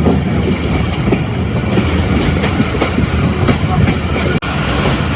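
Tezgam Express passenger coach running on the track, a steady rumble with the wheels clicking over rail joints. The sound cuts out for an instant about four seconds in.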